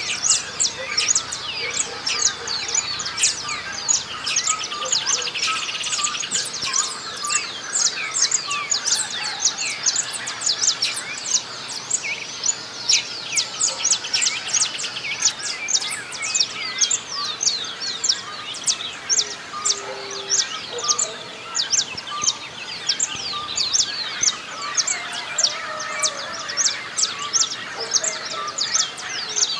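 A dawn chorus of many small birds singing and chirping at once, short high chirps and whistles overlapping throughout, with a fast trill about five seconds in.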